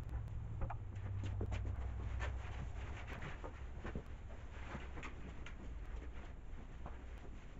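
Irregular light clicks and rustles of hands handling things, over a low steady hum.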